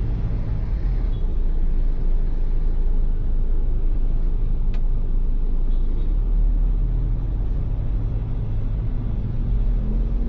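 Ford Everest SUV driving, with a steady low rumble of engine and road noise and a single sharp click about halfway through.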